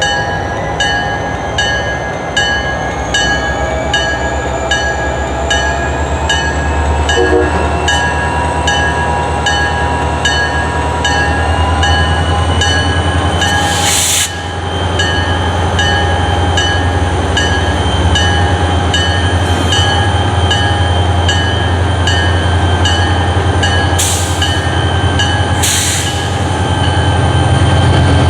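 CSX freight train passing, with a heavy low rumble and squealing wheels. A steady high ding repeats about twice a second throughout, and three short bursts of hiss come about halfway through and twice near the end.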